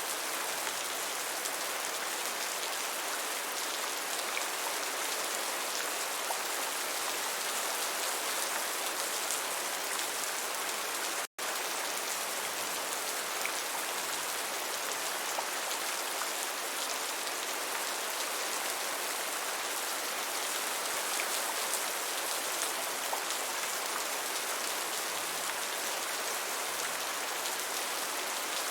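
Steady rain falling, an even hiss with scattered drop ticks. It cuts out to silence for an instant about eleven seconds in.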